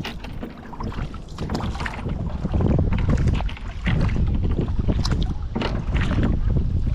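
Kayak paddling: splashes and drips from the paddle in the water, with wind rumbling on the microphone that grows louder about two and a half seconds in.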